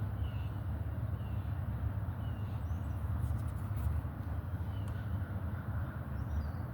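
Outdoor ambience: a steady low rumble with a small bird chirping over it, short calls about once a second that stop about a second in and return near the end.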